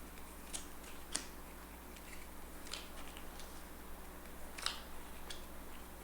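A handful of faint, sharp clicks and snaps of playing cards being handled and laid down on a table, over a steady low hum.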